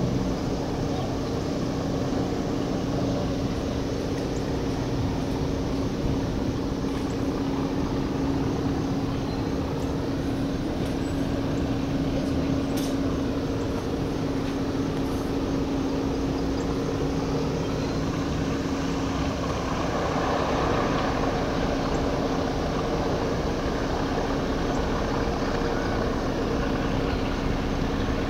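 EMD GP38-2 diesel-electric locomotive, its 16-cylinder 645 engine running with a steady hum, with a rushing rolling noise building about two-thirds of the way through.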